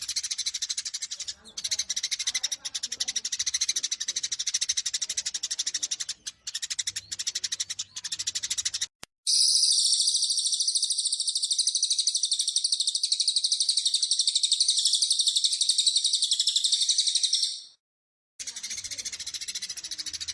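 Eurasian tree sparrows in the rapid, dense chattering of a fight. About nine seconds in, this gives way to a louder, unbroken high-pitched trill lasting about eight seconds, which stops abruptly before the sparrow chatter resumes near the end.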